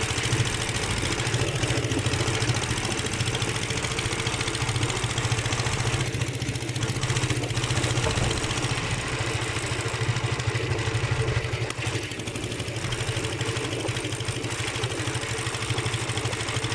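Engine of a replica 1910 Harley-Davidson motorcycle idling steadily, with rapid, even firing pulses; it drops slightly in level a little past two-thirds of the way through.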